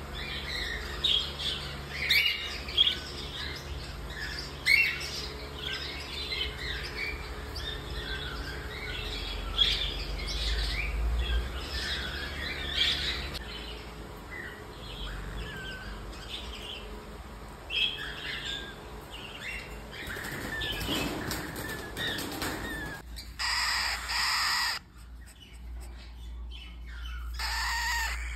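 Cockatiel chicks chirping rapidly in many short calls, with some wing flapping. Near the end come two longer, steadier calls, the first lasting about two seconds.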